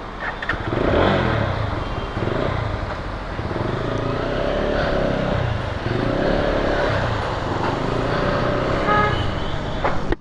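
Lifan KPT motorcycle engine running while riding through city traffic, its revs rising and falling, with a vehicle horn sounding briefly about nine seconds in.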